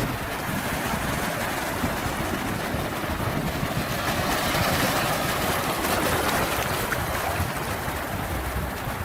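Sea waves: a continuous wash of surf that swells a little around the middle.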